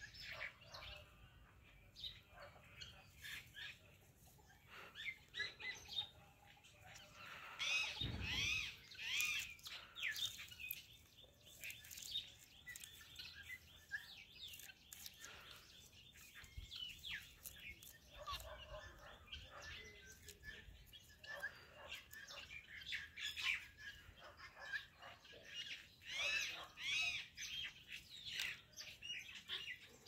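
Birds chirping in quick bursts of short, high calls, busiest about eight seconds in and again near the end, with scattered small clicks and a brief low rumble about eight seconds in.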